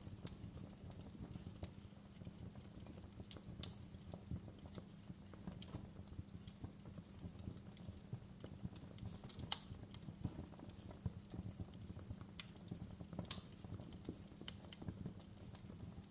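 Wood fire crackling: irregular sharp pops and snaps over a low, steady rumble of flames. Two pops stand out as louder, one a little past the middle and one about three seconds before the end.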